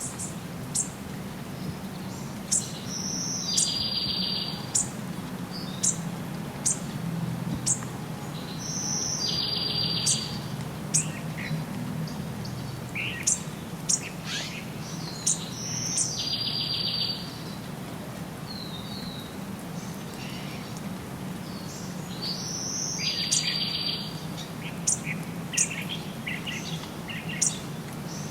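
Songbirds chirping, with short high calls scattered throughout and one song phrase that ends in a buzzy trill recurring about every seven seconds (five times). A steady low rumble of background noise runs beneath.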